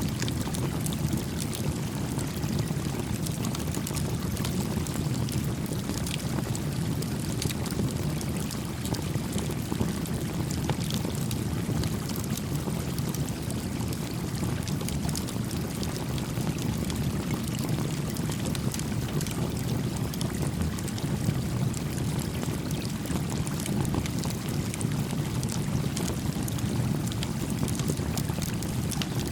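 A creek flowing steadily with a low, even rushing sound, with a small campfire crackling over it in scattered sharp pops.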